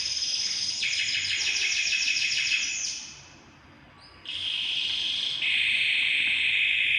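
Songbird song of fast, dense trills and chatter, broken by a short pause about three seconds in, then resuming as a steadier, lower trill. The abrupt changes in the song suggest an edited masteran recording used to tutor a caged bird.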